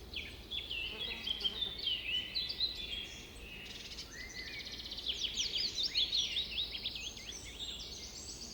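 Several songbirds singing and chirping at once, a dense tangle of quick rising and falling notes, over a steady low background noise.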